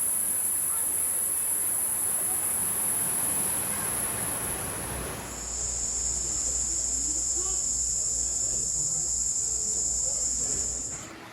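Cicadas buzzing: a loud, steady, very high-pitched drone that switches suddenly to a lower pitch about five seconds in.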